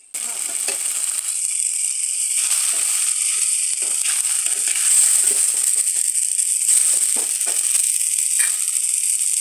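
Onion and spice masala sizzling in hot oil in a stainless steel pan, a steady high hiss with irregular scrapes and clicks of a spatula stirring against the pan. The masala is being fried until the oil separates.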